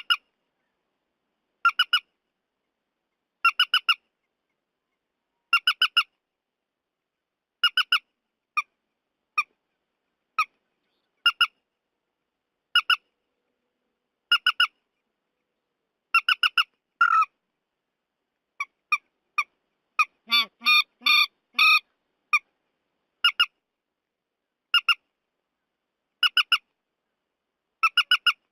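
Looped recording of the trích ré bird's call, used as a lure: short, sharp, high calls in quick pairs or triplets, repeated about every one and a half seconds. About two-thirds of the way through, a denser, harsher run of chattering calls.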